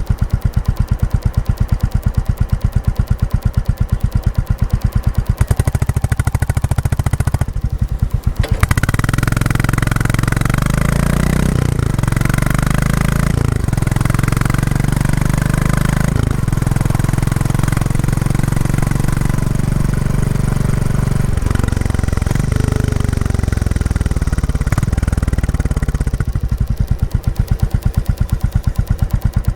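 Royal Enfield Classic 350's single-cylinder engine through its stock exhaust, first ticking over with slow, separate thumps. It then pulls away and rises in pitch, dipping briefly at each upshift. Near the end it drops back to slow, even thumps.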